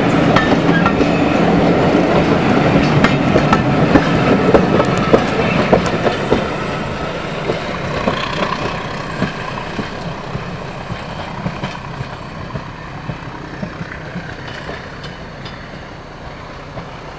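Train running past and moving away: its wheels click over the rail joints as the noise fades steadily.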